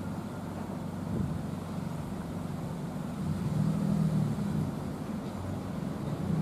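Low hum and rumble of a slow-moving train: the E231-800 series cars being hauled by an EF81 electric locomotive. A pitched motor drone swells about three and a half seconds in.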